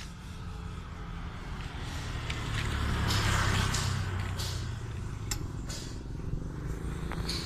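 Yamaha Vixion's 150 cc single-cylinder four-stroke engine running through a custom racing exhaust, with the note swelling louder about three seconds in and then easing back to idle.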